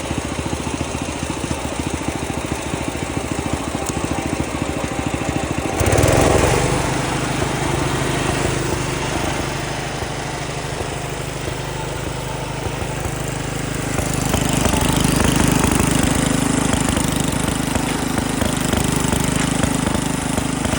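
1968 Wheel Horse Commando 8 lawn tractor's single-cylinder engine running. It steps up suddenly and gets louder about six seconds in, and rises again about two-thirds of the way through.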